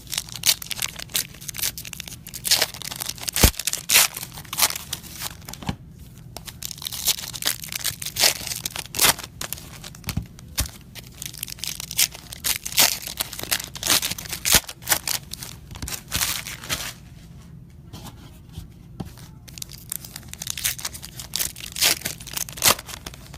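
Wrappers of football trading-card packs being torn open and crinkled, a dense, irregular run of crackling and tearing.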